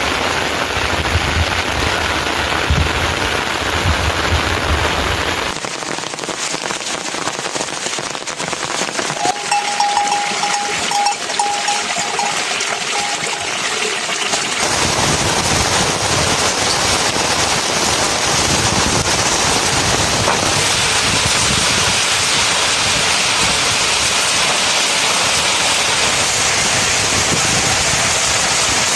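Steady rain falling, an even hiss that shifts in character a few times. Briefly in the middle a thin, steady ringing note sounds with a few ticks.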